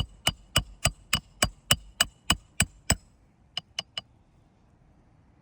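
Hammer driving roofing nails into asphalt shingles: about a dozen steady blows, roughly three a second, each with a short metallic ring, then three quicker, lighter taps about four seconds in before the hammering stops.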